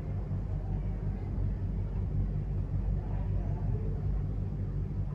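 A steady low rumble, with faint voices murmuring about three seconds in.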